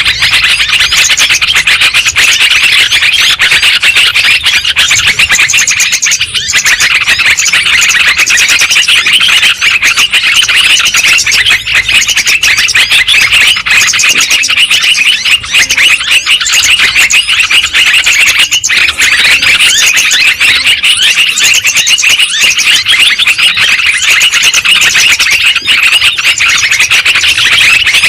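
Dense, continuous chattering and chirping of yellow-vented bulbuls (trucukan), many calls overlapping as a lure recording. It thins briefly about six seconds in and again about eighteen seconds in.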